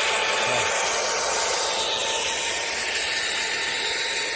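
Chainsaw running steadily while cutting into an oak trunk to fell it, a continuous even sound with no let-up.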